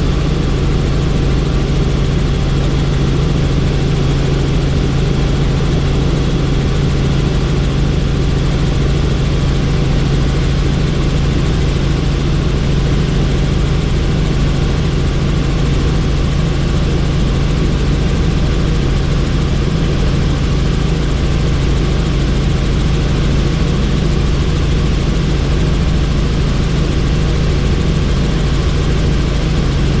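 Helicopter in flight heard from inside with the doors off: steady loud turbine and rotor noise with the fast low beat of the blades, buffeted by rushing air.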